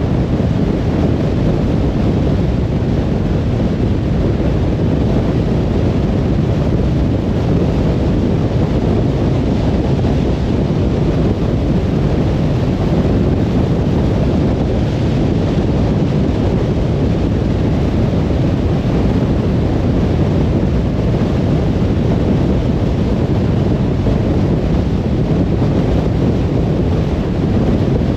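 Steady low rumble of a car cruising on a motorway: constant tyre and wind noise with no changes in speed.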